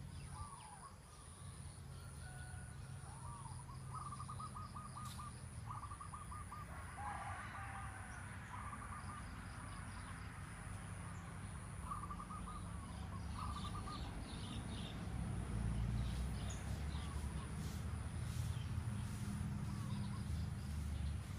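Garden birds calling in short, quickly repeated trilled phrases, with a high, evenly pulsing chirp behind them and a low rumble that grows louder in the second half.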